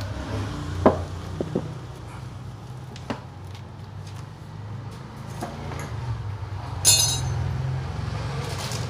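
Metal engine parts and hand tools tapping and clinking during bench work on a motorcycle engine, with a few light taps early on and one louder, ringing metallic clink about seven seconds in, over a steady low hum.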